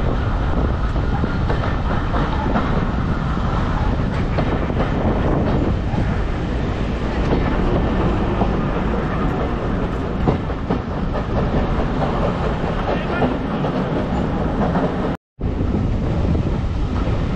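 A train running along the track: a steady rumble that drops out for a moment near the end.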